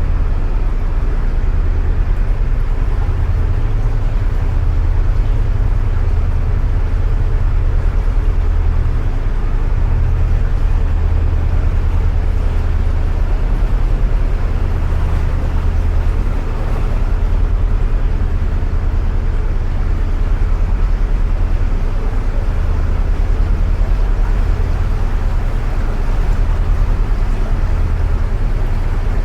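Narrowboat engine running steadily at cruising speed inside a canal tunnel: a deep, even hum that pulses gently, with a hissing wash of noise above it.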